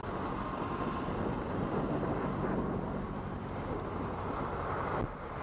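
Steady vehicle driving noise: a low engine hum under road and wind noise. It changes abruptly about five seconds in.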